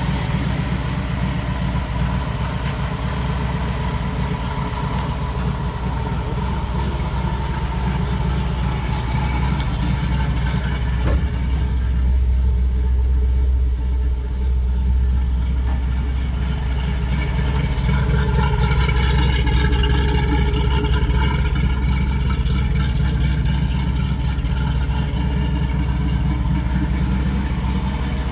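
Ford 302 small-block V8 in a 1973 Ford Bronco idling steadily, running through headers and dual exhaust.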